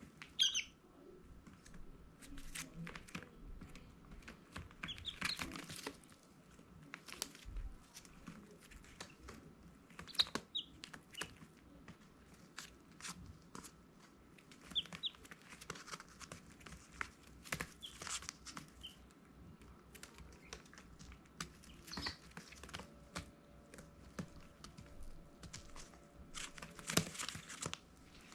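Baby chicks giving occasional short high peeps among scratching, pecking and rustling clicks.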